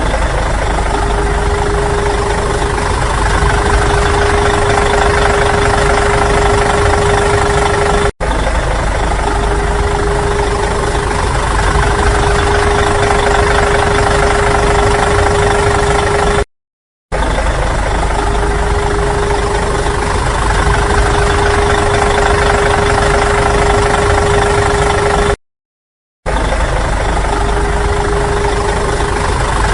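A vehicle engine running steadily, with a constant steady tone over the engine noise. It is broken by three brief drops to silence.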